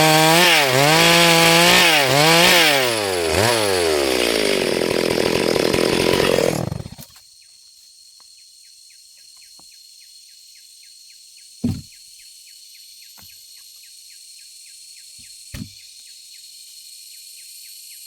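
Stihl MS382 two-stroke chainsaw running at full throttle in a cut, its pitch repeatedly dipping under load, then slowing down and stopping about seven seconds in. Afterwards insects keep up a steady high buzz with fast ticking, broken twice by a short low thump.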